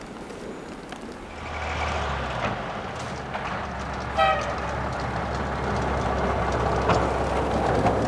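A heavy vehicle's engine rumbling as it approaches and grows louder, with one short horn toot about four seconds in.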